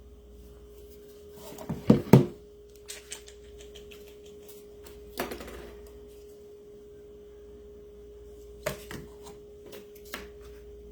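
Craft supplies being handled and set down on a tabletop: a loud double knock about two seconds in, then scattered lighter taps and knocks. A steady hum runs underneath.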